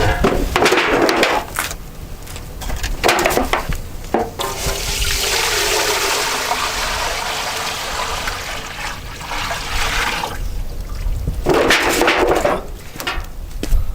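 Water rushing or pouring, a steady rush of about six seconds in the middle, between shorter knocking and handling sounds.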